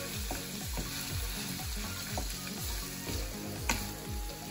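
Ground pork sizzling in a frying pan as a wooden spatula stirs it, with one sharp knock a little under four seconds in, under background music with a steady beat.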